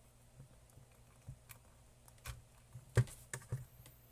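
A few scattered light clicks and knocks from small objects being handled, the sharpest about three seconds in, over a faint steady low hum.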